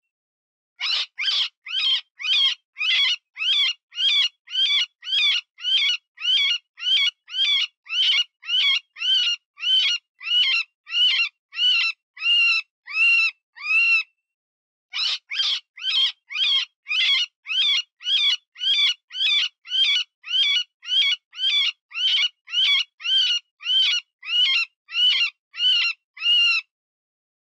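Cottontail rabbit distress call used as a predator lure: short, high, wavering squealing cries repeated about twice a second, with a pause of about a second midway before the series resumes.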